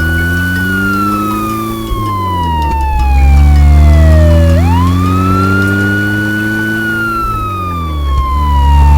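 Wailing siren: each cycle rises quickly, holds briefly, then falls slowly over about four seconds, starting again about six seconds after the last. Under it, a low engine climbs gradually in pitch and drops back twice.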